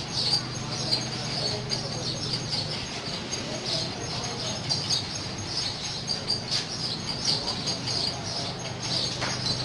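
Small birds chirping, many short high-pitched calls repeated throughout, over a steady low hum.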